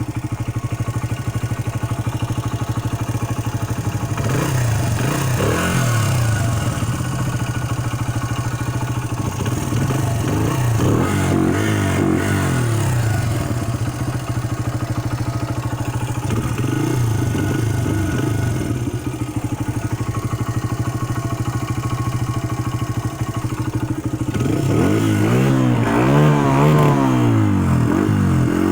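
Honda XR80R dirt bike's 80cc single-cylinder four-stroke engine idling, then revved in several rising and falling blips, the biggest near the end, with the choke still on.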